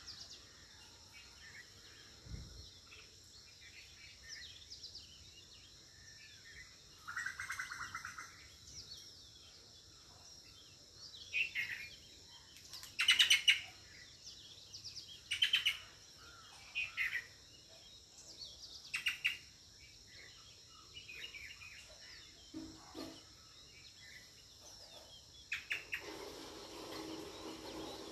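Birds chirping and calling at scattered intervals, short high chirps and trills, the loudest burst about halfway through.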